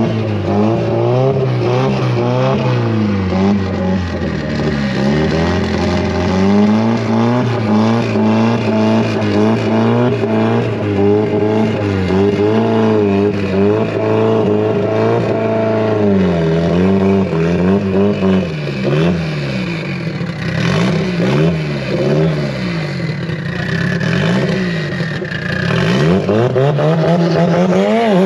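Drag-racing car engines revving, the pitch climbing and dropping over and over with more than one engine heard at once, and a sharp rising rev near the end.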